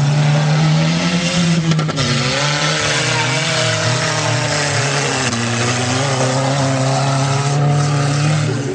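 Stock-car engine running hard at high revs as the car races across a dirt track. Its pitch dips briefly about two seconds in and again around five seconds before climbing back.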